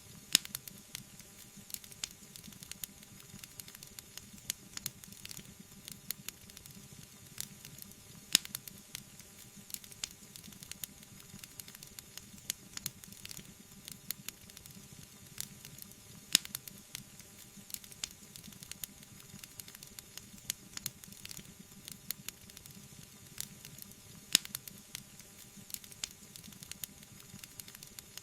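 Wood fire burning in a fireplace: a soft steady hiss with constant small crackles and a few louder, sharp pops.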